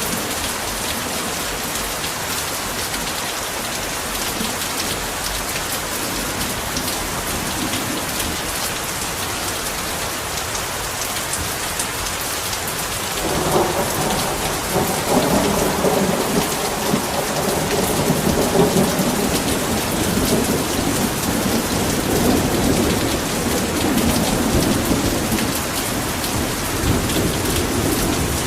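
Heavy rain pouring steadily as a dense hiss. About halfway through, a long low rumble of thunder rolls in under the rain and keeps going.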